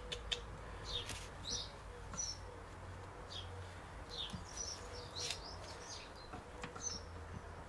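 Small birds chirping in short, repeated high calls, with a few light clicks as gearbox parts are handled.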